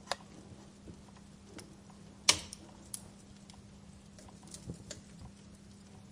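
Wood fire crackling: scattered sharp pops and snaps, one louder pop about two seconds in, over a faint steady low hum.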